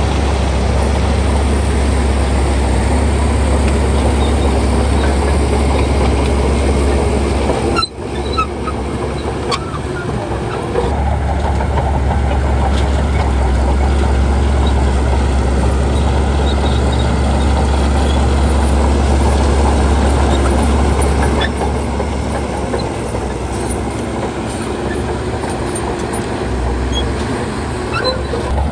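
Diesel engine of a crawler bulldozer running steadily under load, with a deep low rumble. The sound drops out sharply for a moment about eight seconds in, then resumes.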